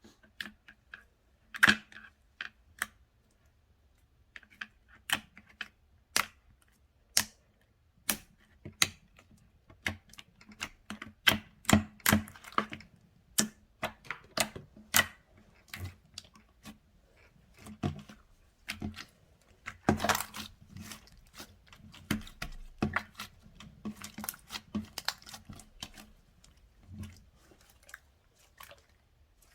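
Slime being squeezed and poked by hand, giving an irregular run of sticky clicks and small pops.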